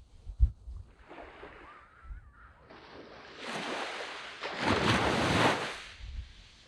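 Waves breaking on a sandy beach: a small wash about a second in, then a larger wave rushes up, loudest about five seconds in, and draws back near the end. A brief low thump comes near the start.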